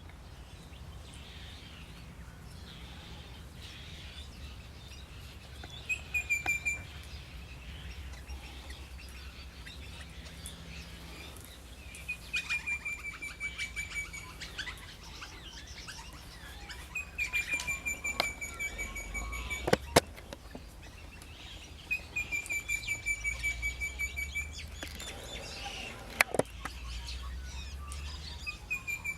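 A bird calling a quick run of high chirps, each run lasting about a second and falling slightly in pitch, repeated five times at intervals of about five seconds. Two sharp knocks come about two-thirds of the way through and again a little later.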